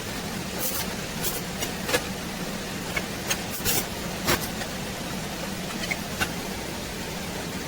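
A steady machine hum with short, sharp hissing noises at irregular intervals, about one or two a second.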